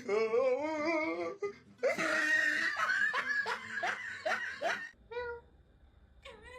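A person laughing hard in two long bouts, the second broken into quick pulses, then two short high wavering cries near the end.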